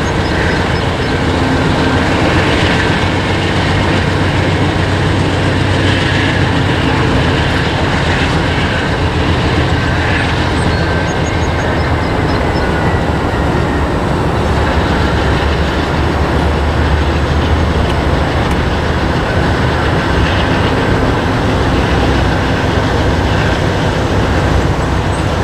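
Norfolk Southern freight train's cars rolling steadily across a stone arch bridge, wheels running on the rails in an even, continuous rumble.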